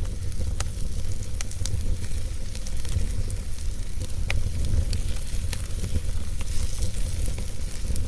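Wood fire crackling in a fireplace: scattered sharp pops and snaps over a steady low rumble and hiss of the flames.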